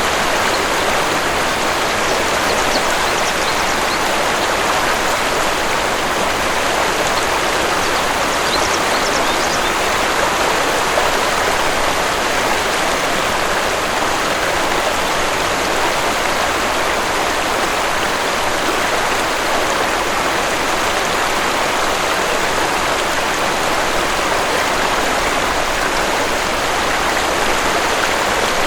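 Waterfall: steady, even rush of falling and splashing water.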